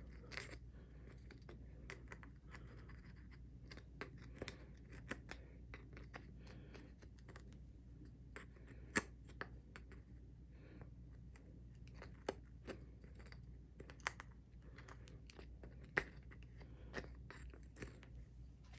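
Hand chisel scraping and paring wood, with scattered scratches and a few sharp clicks, cutting a recess for a nut in a small wooden knob. A steady low hum runs underneath.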